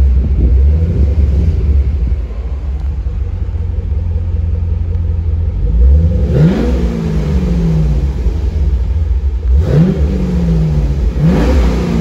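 2013 Chevrolet Camaro's 6.2 L LS3 V8 idling with a steady low rumble, then blipped three times, each rev rising quickly and falling back to idle, heard from inside the cabin.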